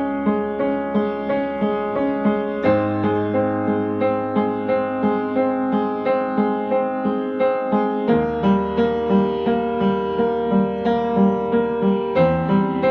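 Piano playing a repeated-chord accompaniment in a steady rhythm, the chord changing three times along the way.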